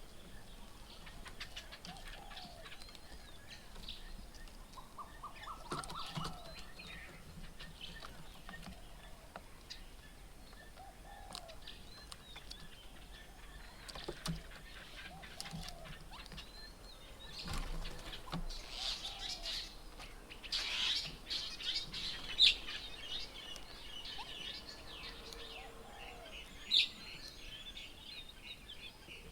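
Several birds calling at a garden bird table: a short low call repeating every few seconds, with a busier burst of high chirps and chatter in the second half.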